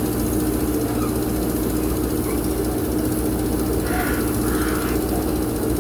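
Diesel engine of a JCB backhoe loader running steadily at a constant speed while it works.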